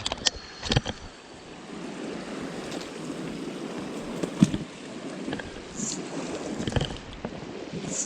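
Mountain stream water rushing steadily, with a few sharp clicks and knocks over it, the loudest about four and a half seconds in.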